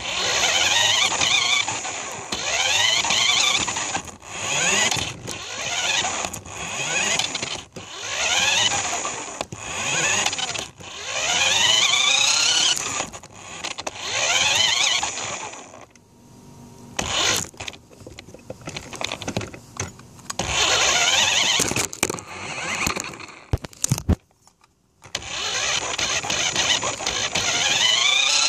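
RC car motor revving up again and again, each burst a rising whine lasting a second or two. Partway through, the bursts give way to scattered clicks and knocks for several seconds, then the whining bursts start again near the end.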